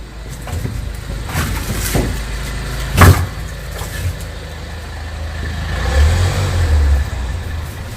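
A vehicle's low steady rumble with several sharp knocks and thumps, the loudest about three seconds in, and a heavier rumble swelling briefly near the end.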